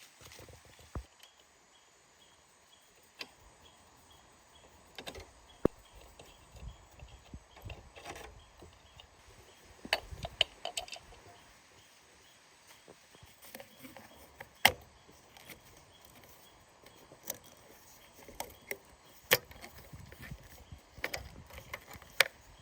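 Scattered sharp clicks and knocks, a dozen or so at uneven intervals, over a low rumbling background.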